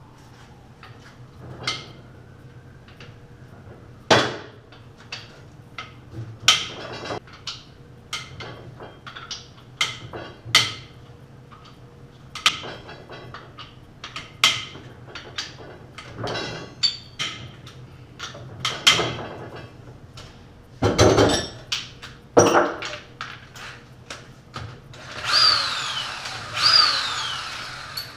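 Metal clanks and knocks of tools and engine parts being handled during a small-block Chevy 350 teardown. Near the end a power tool runs in three short bursts, its pitch falling each time.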